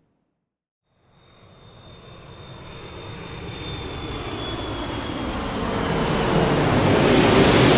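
Jet airliner engine and cabin noise fading in after about a second of silence and growing steadily louder, with a high whine that slowly falls in pitch over a low rumble.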